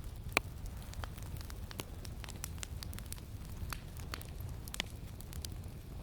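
Campfire crackling, with irregular sharp pops and snaps, one louder pop about a third of a second in, over a steady low rumble of wind.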